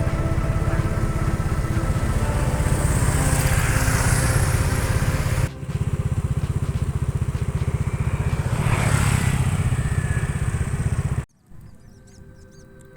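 Motorcycle engines running close by, with two swells of hiss as vehicles pass, about four and nine seconds in, and a brief break about halfway. The engine noise cuts off about two seconds before the end, leaving quieter background music.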